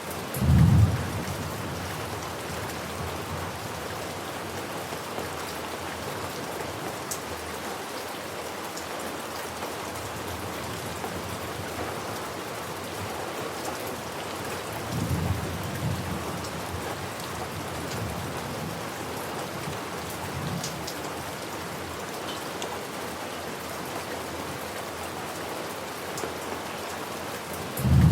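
Steady rain falling, with deep thunder rumbling over it: a loud short rumble just after the start, a softer one around the middle, and another loud one at the very end.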